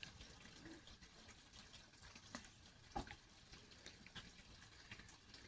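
Near silence: faint background with a few soft clicks, the clearest about three seconds in.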